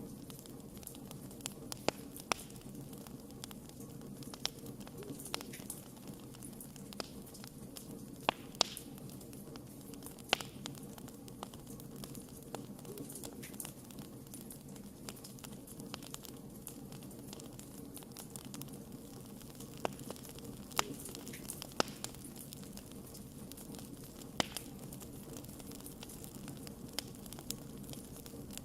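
Wood fire crackling: sharp pops and snaps at irregular intervals over a steady low rumble of burning, with a few louder pops about eight to ten seconds in and again around twenty-one seconds.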